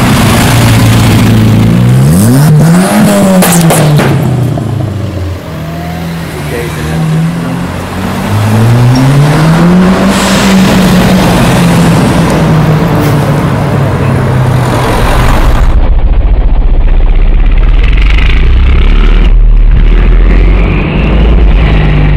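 Turbocharged MG Midget engine revving in traffic. The pitch climbs and drops quickly about two seconds in, climbs again more slowly around eight seconds in, then holds steady. In the second half a deep low rumble comes in and the higher sounds fall away.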